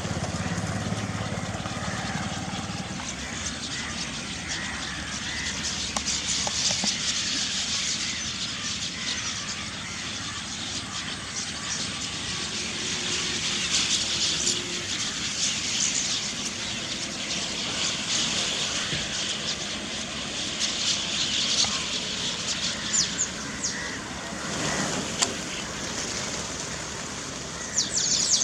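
A flock of chestnut-tailed starlings chattering, many short high calls overlapping and swelling in spells. A steady low rumble of distant traffic runs beneath, heavier for the first few seconds.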